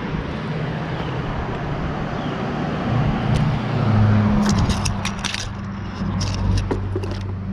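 Bicycle with a flat tyre being wheeled backwards: light metallic rattles and clicks from the bike come in clusters past the middle, over a steady low rumble.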